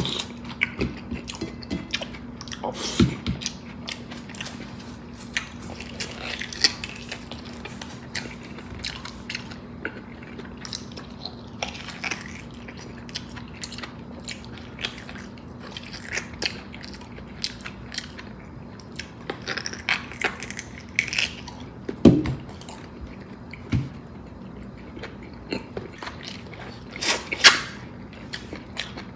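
Close-up eating sounds of a person chewing and biting into bulalo beef and bone: irregular wet clicks and smacks, with a few louder ones near the end, over a steady low hum.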